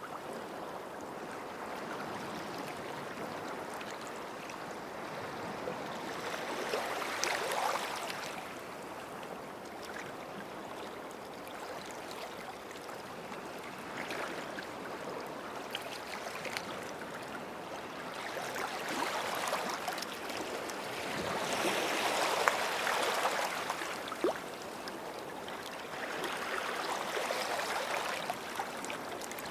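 Small sea waves lapping and washing at the shoreline, the wash swelling and easing every several seconds, loudest a little past the middle.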